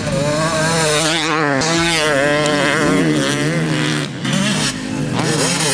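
Yamaha YZ250 two-stroke single-cylinder dirt bike engine revving up and down continuously while being ridden, with a brief drop in revs about four seconds in.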